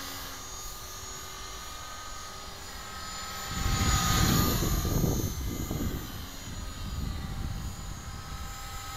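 Electric 450-size RC helicopter in flight: a steady motor whine with rotor noise. About three and a half seconds in, the sound swells loudly with a low, rushing rumble for two or three seconds, then settles back.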